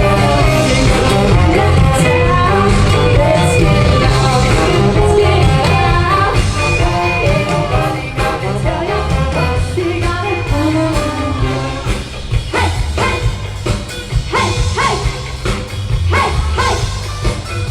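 A live big band playing a loud, busy tune with singing; from about twelve seconds in the band plays a run of short, punchy stabs.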